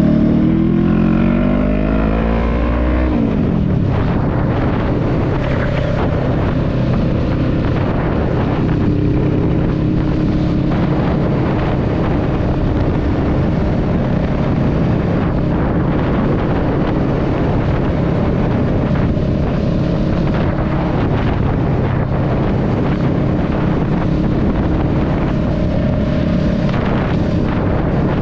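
Honda Rebel 500's parallel-twin engine rising in pitch as it accelerates, then shifting up about three seconds in and running at a steady cruise, with wind rushing over the microphone.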